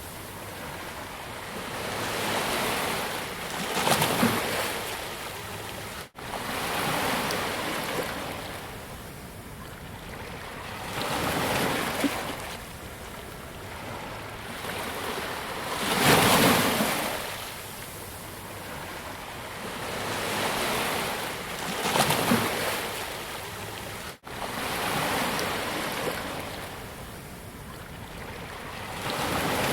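Ocean waves breaking and washing up on a sandy beach, each surge swelling and fading, about one every six seconds. The sound cuts out for an instant twice.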